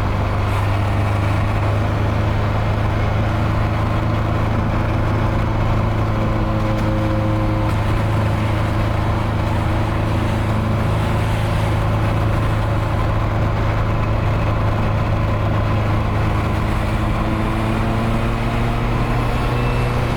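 Nissan 240SX engine and exhaust with a hole blown in it, a steady low drone while driving at an even pace, the pitch climbing a little near the end.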